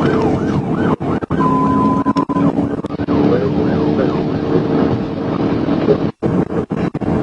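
Police car siren yelping in fast rising-and-falling sweeps over the patrol car's engine and road noise during a pursuit; the sweeps fade after about a second, leaving the engine drone, and the sound cuts out briefly several times.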